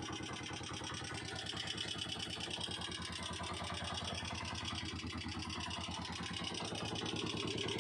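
Honda TMX125 Alpha's single-cylinder four-stroke engine idling steadily with an even, rapid putter.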